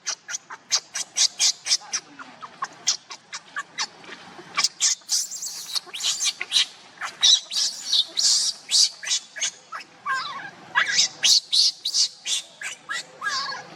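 A rapid run of short, high-pitched animal squeaks and chirps, several a second, with some longer falling calls near the end.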